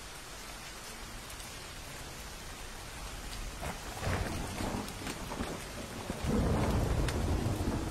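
Steady rain with thunder. A first rumble with crackling comes in around four seconds, then a louder, longer rolling rumble starts about six seconds in.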